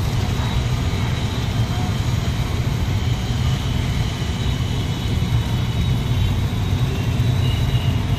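Passenger train running across a steel truss bridge: a steady, loud low rumble of the coaches rolling over the span, with a faint thin high whine above it, strongest near the end.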